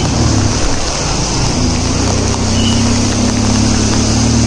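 Heavy rain hissing steadily. From about a second and a half in, a vehicle engine runs at an even low pitch and stops abruptly near the end.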